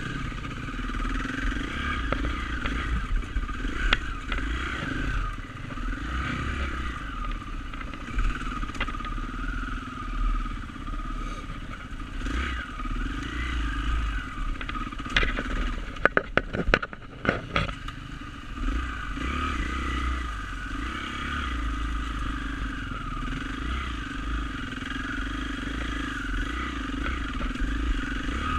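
Dirt bike engine running steadily while being ridden, over a patchy low rumble. About sixteen seconds in comes a quick run of sharp knocks and clatter.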